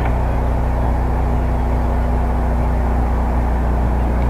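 Steady low hum over a constant background rumble, unchanging throughout.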